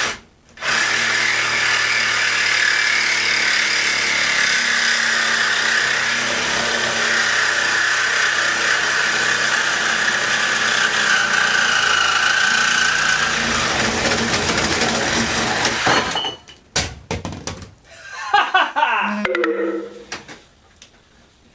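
A power tool cutting into the metal of a refrigerator's cabinet runs steadily for about fifteen seconds, its whine sagging a little under load, then stops. Several clanks and rattles of metal follow.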